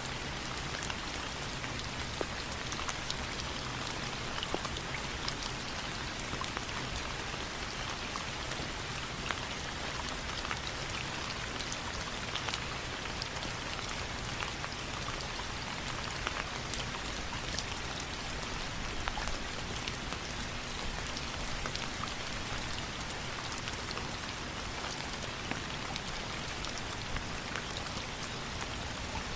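Steady rain, a constant hiss with many small sharp drop ticks scattered throughout.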